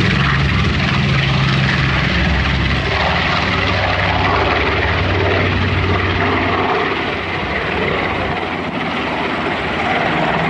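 Propeller aircraft engines running with a steady low drone that fades away about seven seconds in, leaving a wide rushing noise.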